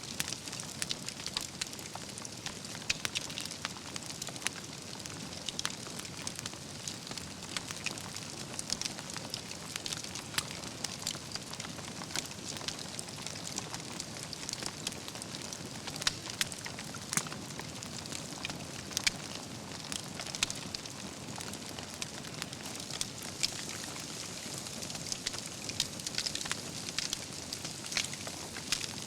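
Wood campfire burning, with a steady hiss and irregular sharp crackles and pops from the logs.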